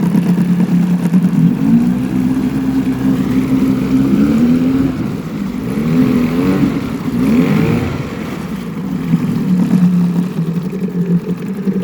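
1975 Mercury 7.5 hp two-stroke outboard running in forward gear. Its engine speed rises about a second and a half in, holds, wavers, then drops back to the lower speed near the end.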